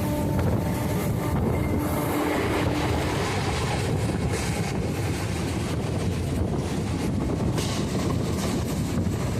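Passenger train running along the track: the steady rumble of the wheels and carriage, with faint repeated clacks over the rail joints.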